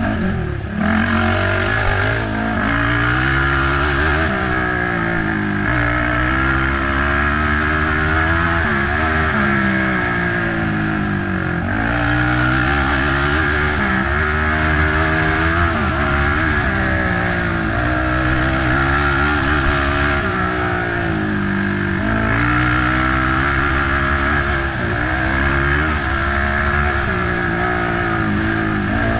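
Race ATV engine revving up and down under hard riding, its pitch climbing and dropping every one to three seconds as the throttle is worked and the gears change, over a steady rush of noise.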